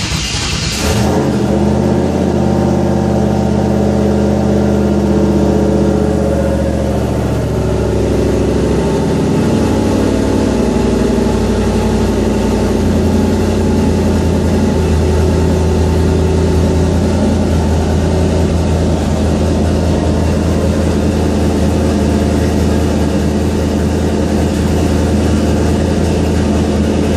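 Ford Fairmont engine catching on a cold start and running at a fast idle. Its speed eases down over about the first dozen seconds, then holds steady: a closed-loop idle air control bringing the still-cold engine (coolant about 61°F) down to a steady idle.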